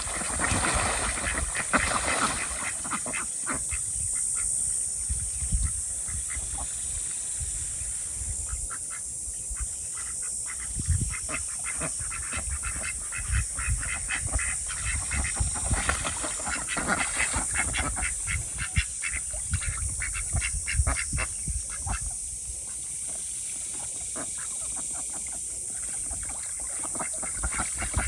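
Domestic ducks quacking, many short calls in quick runs that come and go in bouts.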